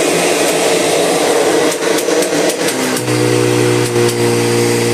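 Kirby Generation 5 upright vacuum running on a freshly fitted replacement drive belt, the old one having burnt out. A dense motor hum with a few clicks near the middle settles into a steady pitched hum about three seconds in.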